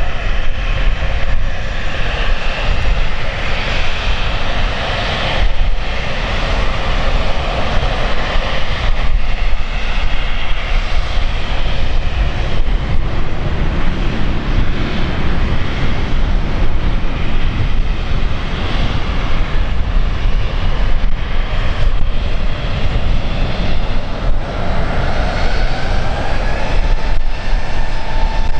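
Airliner's engines running loud and steady, with a tone that rises in pitch near the end.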